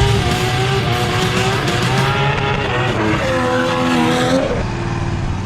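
A car being driven hard in a drift, its engine running at high revs while the tyres squeal.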